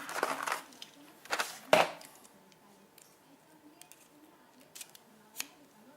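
Handling noise of small tools and objects on a work surface: a cluster of clicks and knocks in the first two seconds, the sharpest about a second and a half in, then a few faint ticks and one more click near the end.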